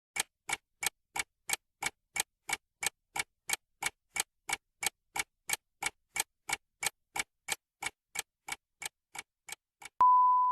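Countdown timer sound effect: clock-like ticks about three a second, ending near the end in a steady, single-pitch beep as time runs out.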